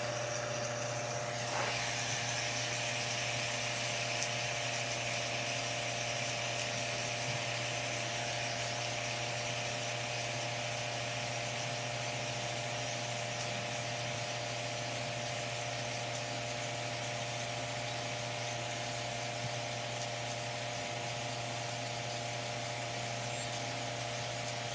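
Fidget spinner spinning on its bearing, a steady whir that fades only slightly, over a constant hum.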